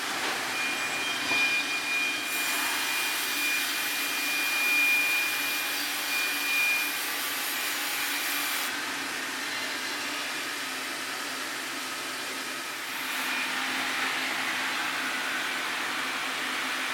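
Sawmill running and sawing a Taiwan sweetgum log, a steady machine noise with a thin high whine early on. The hiss of the cut eases about halfway through and picks up again near the end.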